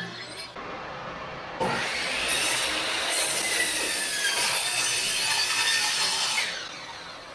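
A tool working a piece of solid pine in one continuous pass of about five seconds. The sound is a loud, dense rasp that starts abruptly and fades out near the end.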